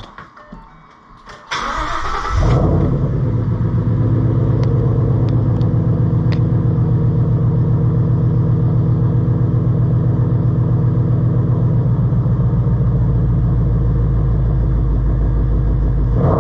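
2014 Ford Mustang GT's 5.0-litre V8 starting: about a second and a half in, the starter cranks briefly, the engine catches, and then it runs at a steady idle to warm up before the oil is drained.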